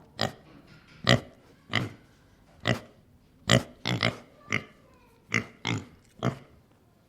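Domestic pig grunting: a string of short, sharp grunts at an uneven pace, about one to two a second.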